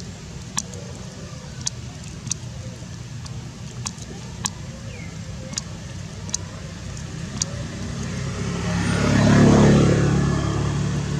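A motor vehicle passes, growing louder to a peak about nine and a half seconds in and then fading, over a steady low engine hum. A few sharp clicks sound earlier on.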